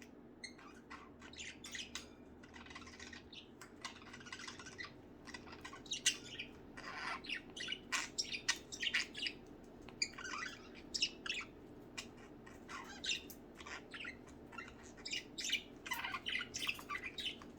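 Budgerigars chirping and squawking, a busy run of short calls that grows denser partway through, over a steady low hum.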